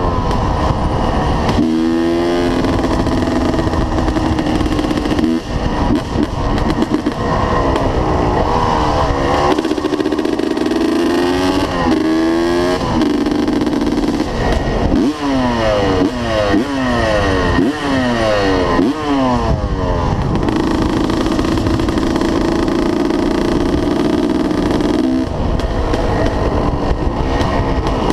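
Dirt bike engine running hard, its pitch climbing and dropping back again and again as it is revved, with stretches held at a steady pitch.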